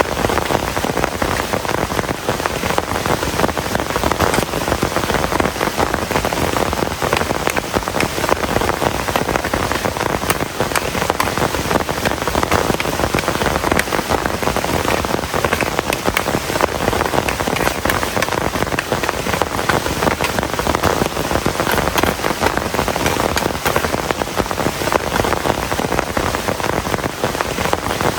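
Heavy rain falling steadily, a dense unbroken patter of drops.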